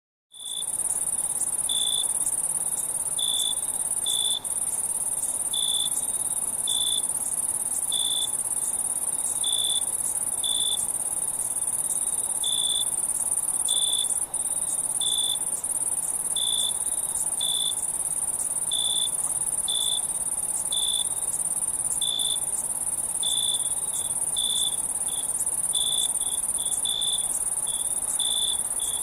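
Crickets and other night insects: a steady, very high-pitched trilling drone with a separate lower-pitched chirp repeating about once a second, coming faster near the end.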